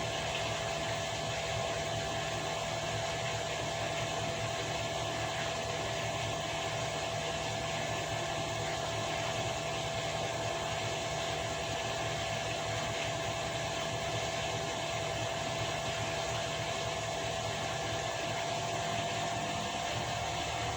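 Washing machine running: a steady, even hum and hiss of the drum and motor with a steady whine, which rises slightly in pitch near the end.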